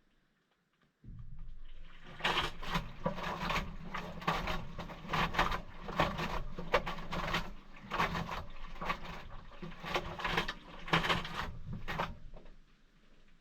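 Maytag washing machine agitating a load of towels in its cold wash cycle: the motor starts with a low hum about a second in, then water and laundry swish and slosh in repeated strokes about twice a second, and the motor stops near the end.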